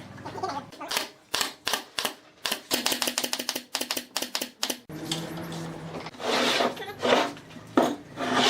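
A quick run of sharp clicks and taps, several a second, followed by a few short hissing bursts over a low hum.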